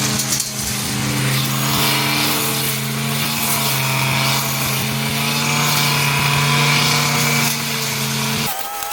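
A garden power tool's small motor runs at a steady, even pitch with a rasping hiss over it, then cuts off abruptly near the end.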